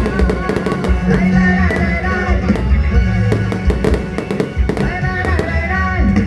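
Fireworks going off in rapid, irregular bangs, several a second, over loud music with a held melody and steady bass notes.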